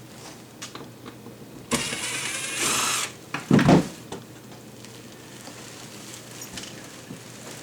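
Screw gun running for about a second and a half, backing out a screw, followed by a loud knock.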